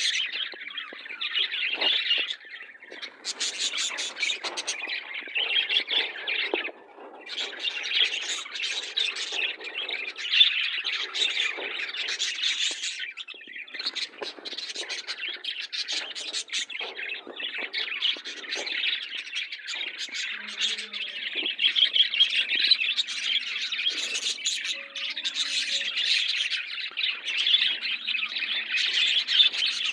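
A flock of pet budgerigars and lovebirds chattering and squawking without pause, a dense mix of warbling chatter and sharp, shrill calls, with a brief lull about seven seconds in.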